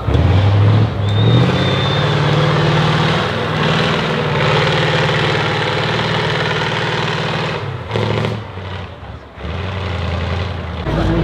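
An off-road trial truck's engine running hard under load. The revs step up about a second in and hold high, drop off about eight seconds in, then pick up again at a lower pitch.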